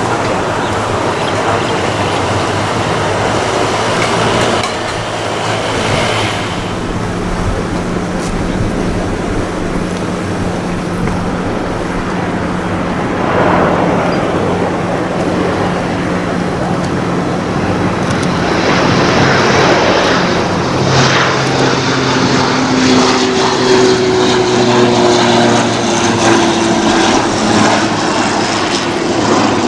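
Beech 1900C twin turboprop running on the runway: a loud, steady propeller drone with low tones, and in the second half a higher tone that slowly drops in pitch as the aircraft passes.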